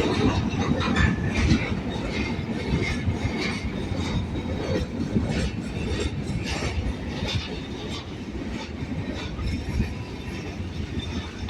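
Freight train rolling past steadily, a continuous low rumble with the wheels clicking over rail joints and a faint high wheel squeal now and then.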